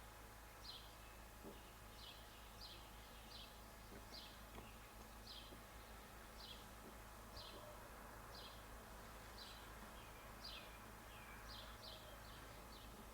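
A small bird chirping repeatedly, short high chirps about one or two a second at uneven spacing, faint over a low steady hum.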